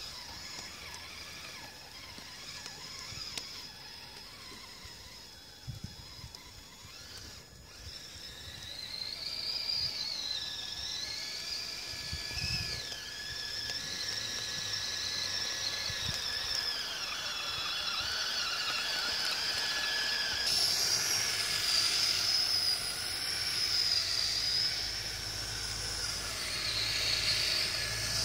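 Electric motors and gear trains of a twin radio-controlled Kyosho Blizzard tracked chassis whining, the pitch rising and falling as the throttle changes. Faint and steady at first, then louder and more varied from about eight seconds in.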